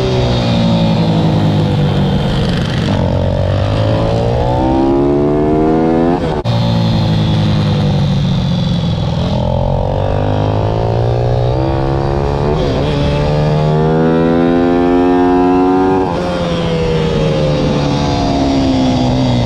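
Pit bike's single-cylinder four-stroke engine (IMR YX160) under hard riding, its pitch climbing steadily as it accelerates and dropping sharply each time the throttle closes, about every three seconds.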